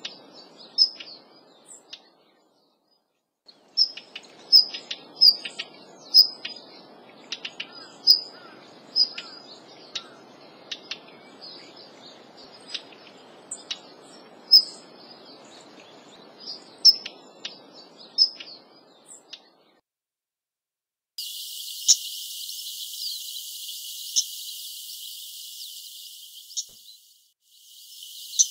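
Daurian redstart calling: short, sharp high 'hit' notes mixed with dry clicking 'tack' notes, irregular and several a second. The calls stop briefly, then resume more sparsely over a steady high hiss.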